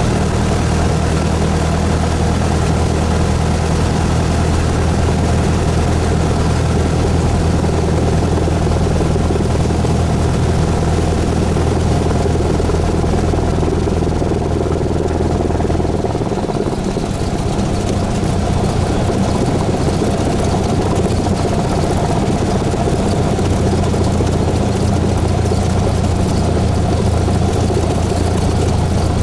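Cessna 172S's four-cylinder Lycoming engine and propeller running steadily at low power. The engine note wavers and shifts briefly about two-thirds of the way through, then settles into a steady run again.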